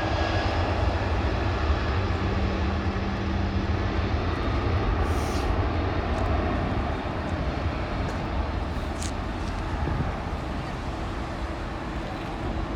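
Jet engines of an Airbus A380 running: a steady deep roar with a faint steady engine tone over it, easing slightly toward the end.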